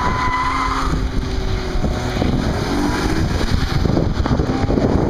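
Car engines revving, their pitch rising and falling, under heavy wind buffeting on the microphone. A high steady whine sounds for about the first second.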